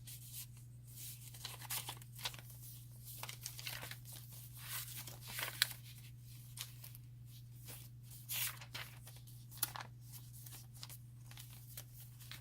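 Paper pages and card of a handmade file-folder junk journal being turned and handled: irregular dry rustles and flicks, with a steady low hum underneath.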